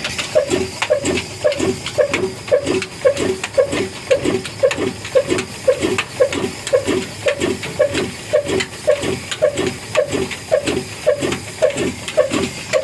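Old Ruston engine running steadily, each firing stroke giving an even exhaust beat about three times a second.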